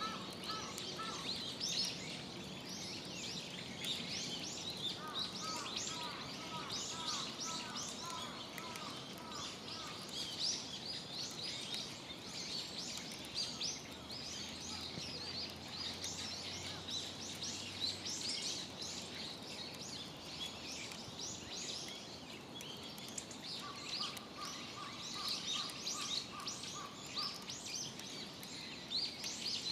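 Wild birds chirping busily and without a break, with another bird's quick series of short, evenly spaced notes three times: near the start, from about five to ten seconds in, and again near the end.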